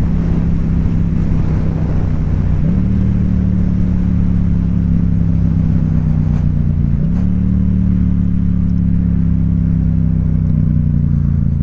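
Motorcycle engine running while riding along, its note stepping up in pitch twice, about three seconds in and again about seven seconds in, and easing down slowly in between.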